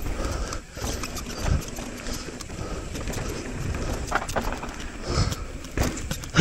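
Mountain bike riding fast down a dirt bike-park trail: steady wind and tyre noise with the bike rattling over bumps, and heavy thumps about a second and a half in and several more near the end, as the wheels hit bumps or land.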